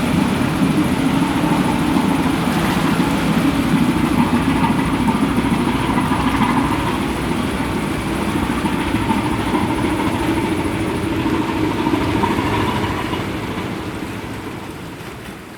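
A steady low engine drone with a haze of outdoor noise, fading out over the last couple of seconds.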